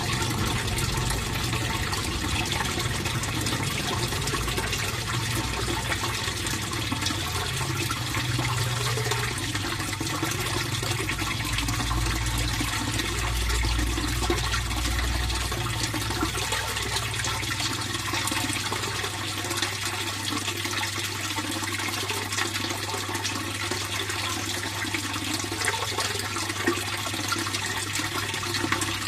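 Fish pond water flowing and splashing steadily, with a low steady hum underneath.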